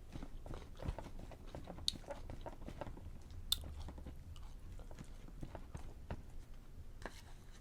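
Soft, wet clicking and squishing of butter being worked into a mashed baked sweet potato, close to the microphone. Two sharper clicks come about two and three and a half seconds in.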